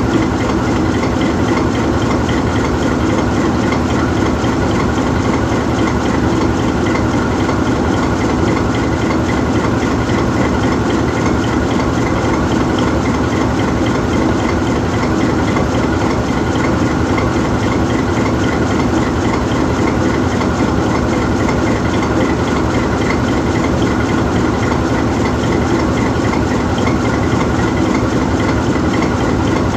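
GE U20C diesel-electric locomotive's V12 diesel engine idling steadily while the locomotive stands parked.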